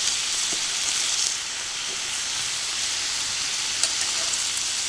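Beef kalbi sizzling steadily on a hot steel griddle plate, with a faint click or two from the metal.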